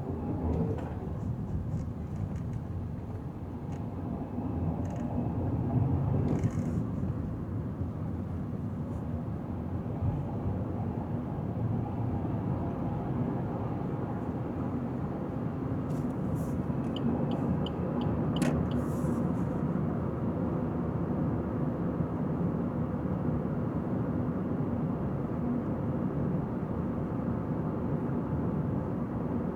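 Car driving on a highway: steady tyre and engine rumble, growing a little louder after the first few seconds, with a short run of faint ticks a little past halfway.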